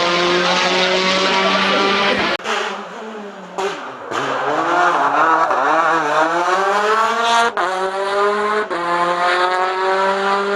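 Rally car engines at high revs in a series of short clips joined by abrupt cuts. One engine note drops and then rises steadily as the car accelerates.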